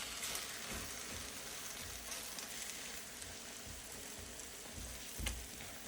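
Egg scramble sizzling faintly in a pan on turned-down heat, an even low hiss, with one soft knock about five seconds in.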